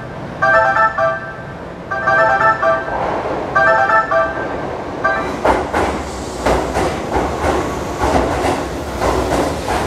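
A repeating electronic platform warning tone sounds about once a second as a train approaches. About five seconds in, a Keihan 8000 series train pulls into the underground station with a rumble, its wheels clicking over the rail joints about twice a second.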